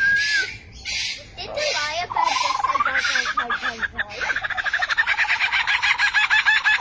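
A bird calling loudly: a whistled note, then sliding, rising whistles, then from about three seconds in a fast chatter of many short repeated notes.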